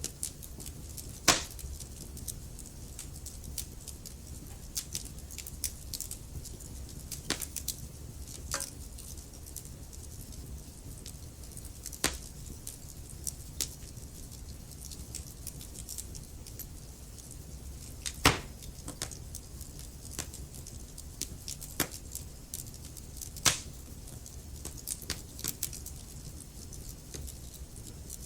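Wood fire crackling in a fireplace: an irregular run of small sharp crackles over a low steady rumble, with four louder pops spread through.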